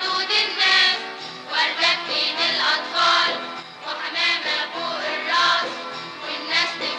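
A song sung by a group of voices with instrumental accompaniment, the melody moving in held notes.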